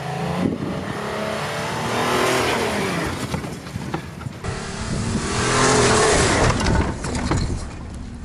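Car engine revving hard under load, its pitch rising and falling again and again.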